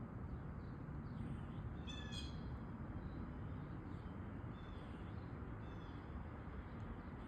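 Blue jay calling: one loud harsh call about two seconds in, followed by several fainter calls, over steady low background noise.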